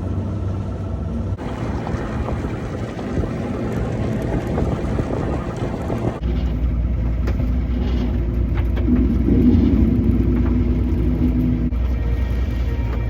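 Boat engine running under way, with rushing wind and water noise. About six seconds in the sound changes abruptly to a steady low engine drone.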